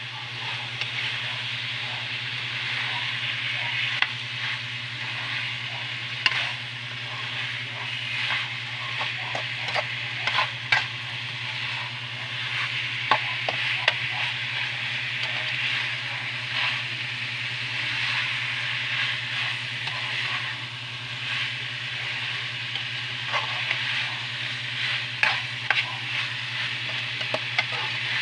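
Pork and liver adobo sizzling as it fries in a stainless steel pan, with its broth set aside so the sauce sticks to the meat. A metal spoon stirring it clicks and scrapes against the pan now and then. A steady low hum runs underneath.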